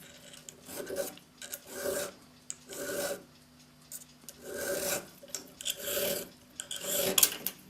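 Hand file rasping across the end of a steel clock mainspring, annealed soft, to round it off. About seven slow strokes, roughly one a second, with a longer pause midway.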